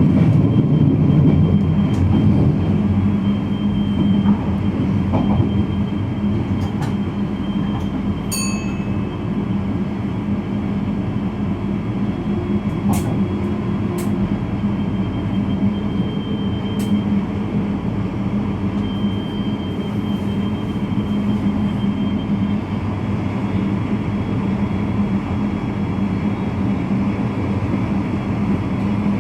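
VIRM double-deck electric train running at speed, heard from the driver's cab: a steady rumble with a constant low hum. A short high beep sounds about eight seconds in, and a few sharp clicks follow later.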